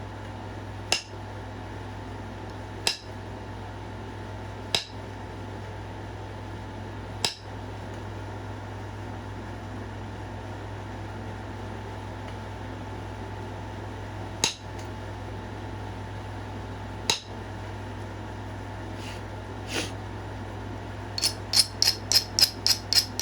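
Stone point being pressure-flaked by hand: sharp, glassy clicks every two seconds or so as flakes snap off the edge. Near the end comes a quick run of about four ticks a second. A steady low hum runs underneath.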